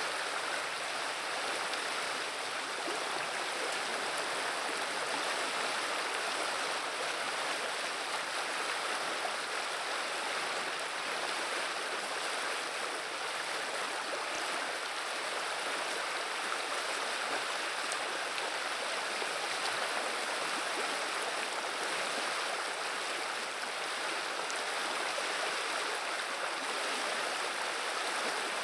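River water running and burbling over its bed, a steady, unbroken rushing hiss.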